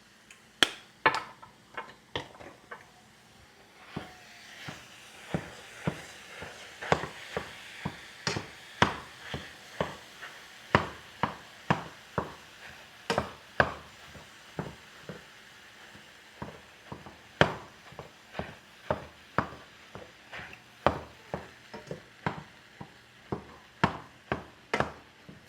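A cooking utensil knocking against a pan over and over while the seasoned ground turkey is stirred, about one or two sharp taps a second at an uneven pace.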